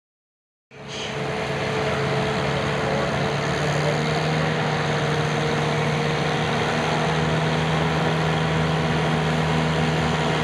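An engine running steadily at an even speed, without revving, cutting in about a second in.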